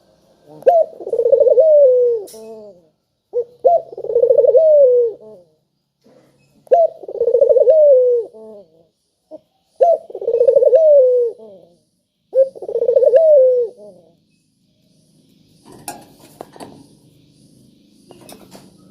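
Puter dove cooing: five loud coo phrases about three seconds apart, each a short rising note then a falling one. After the fifth, the cooing stops and only a few faint clicks are heard near the end.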